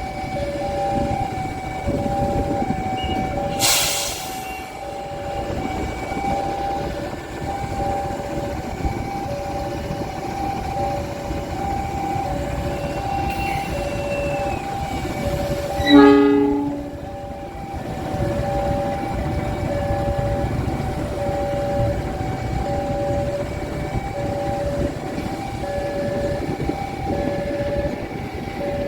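A train running with a steady rumble, under a repeating two-tone warning signal that alternates between a higher and a lower note. A brief loud horn blast sounds about halfway through.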